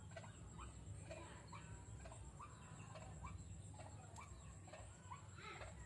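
Faint, short rising chirps from a bird known locally as burung jujuk or tatapaian, repeated about twice a second. A low steady hum lies underneath.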